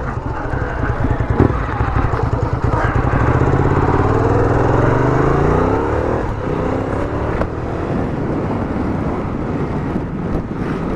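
Sport motorcycle engine under way, its pitch climbing steadily as it accelerates through a gear, then dropping at a gear change about six seconds in and running steadier after that.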